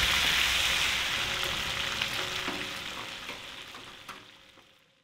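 Fish fillets sizzling as they fry in hot oil in a pan. The sizzle fades out steadily to silence near the end.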